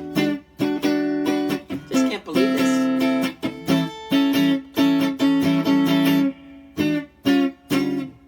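Donner DST-100 Strat-style electric guitar played clean on the neck pickup through a Boss Nextone amp. It plays short, choppy strummed chords, about two a second, with a few chords left to ring for a moment.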